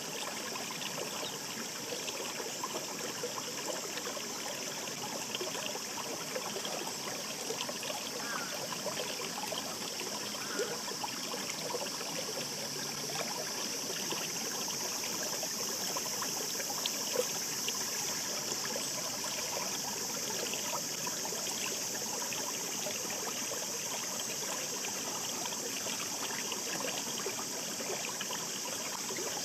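Babbling stream: a steady rush of running water, full of small trickles and splashes.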